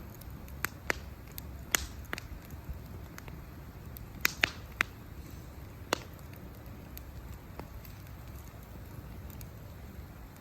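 Wood campfire crackling with sharp pops: a few scattered pops in the first two seconds, a quick cluster of three about four to five seconds in, and one more near six seconds. After that only faint crackles remain over a low, steady rumble.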